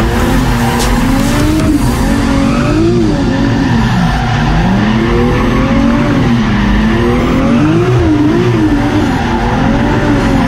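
Drift car's engine heard from inside the stripped cabin, its revs rising and falling repeatedly as the throttle is worked through the drift, over a steady rush of tyre skid noise.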